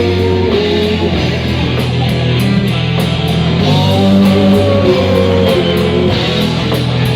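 Live rock band playing an instrumental passage between vocal lines: guitar over a steady low bass line, with regular cymbal or hi-hat strokes keeping time.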